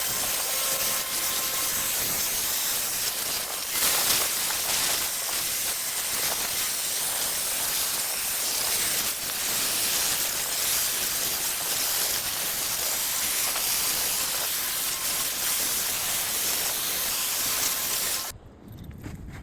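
Soldering torch flame hissing steadily while a 1.5-inch ball valve joint is sweated with solder; the hiss stops suddenly near the end.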